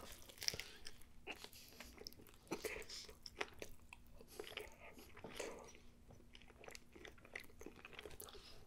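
Close-up eating sounds of a messy breakfast burger on an everything bagel: a bite, then chewing with many small, sharp clicks scattered throughout.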